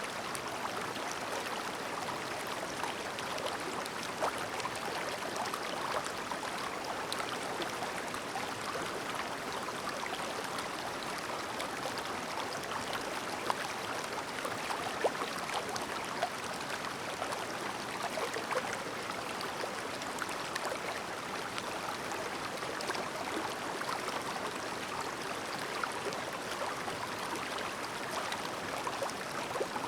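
Clear mountain stream babbling over stones: a steady burble with many small splashes and gurgles.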